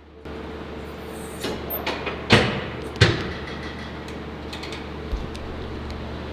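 Two loud, sharp knocks about two and a half and three seconds in, with a few lighter clicks around them, over a steady low hum.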